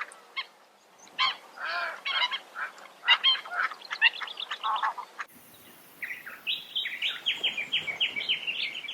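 Eastern osprey calls: repeated short, sharp whistled chirps. About five seconds in, the recording cuts to a rapid run of short, high notes, about six a second.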